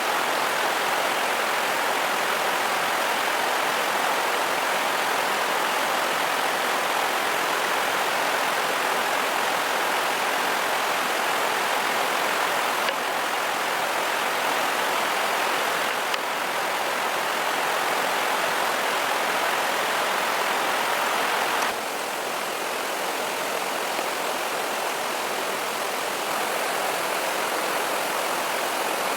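A steady rushing noise that shifts abruptly a few times, dropping slightly in level about three-quarters of the way through.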